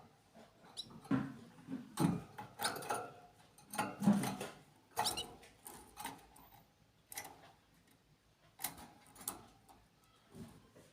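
Small birds with a few brief high chirps, among irregular clicks and scratching.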